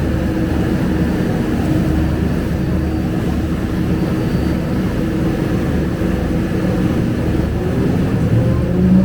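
Scania K250UB city bus's rear-mounted diesel engine and drivetrain heard from inside the cabin while under way: a steady low drone whose pitch gently rises and falls with engine speed.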